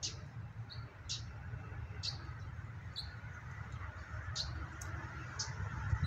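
A small bird calling with short, sharp, high chirps, about one a second, over a steady low rumble.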